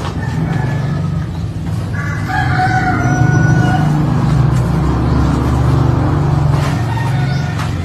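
A single drawn-out animal call, about a second and a half long, over a steady low rumble.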